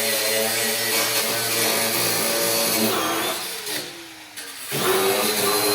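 Cut-off grinder cutting through a rusted shock absorber bolt, running steadily. A little past halfway it is let off and winds down with a falling pitch, then is started again for a short run near the end.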